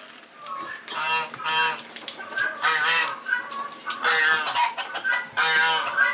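Geese honking, repeated short calls coming mostly in quick pairs.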